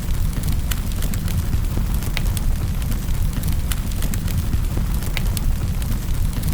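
Wood fire burning in a fireplace: a steady low rumble with frequent sharp crackles and pops scattered irregularly throughout.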